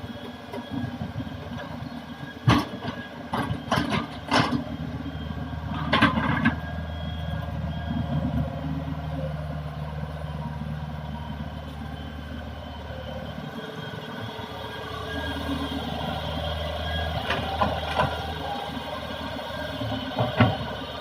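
Hitachi excavator's diesel engine running steadily under work, with a cluster of sharp knocks and clanks a few seconds in and two more near the end.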